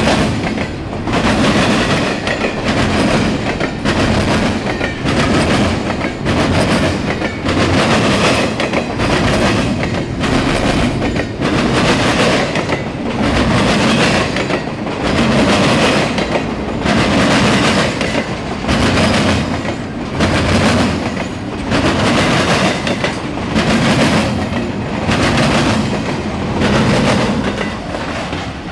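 Double-stack intermodal well cars rolling past: a continuous wheel-on-rail rumble with wheels clattering over rail joints in a repeating clickety-clack, swelling as each car goes by.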